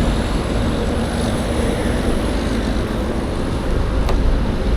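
Yamaha MT-10 SP crossplane inline-four engine running at a steady, even speed, with a short click about four seconds in.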